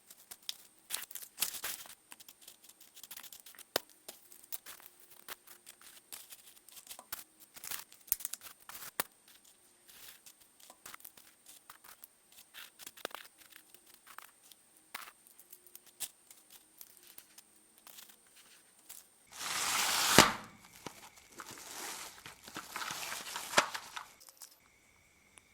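Small plastic toy cars handled up close: a string of light, irregular clicks and taps of plastic parts. About twenty seconds in there is a short, loud burst of rough noise, and a second, softer stretch follows a moment later.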